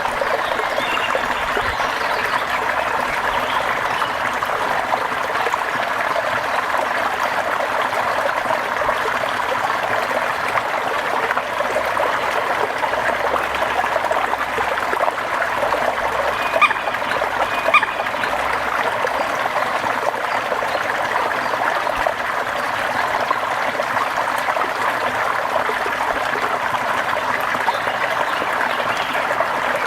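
Steady rain with trickling water, an even hiss throughout, broken by two short ticks about a second apart just past the middle.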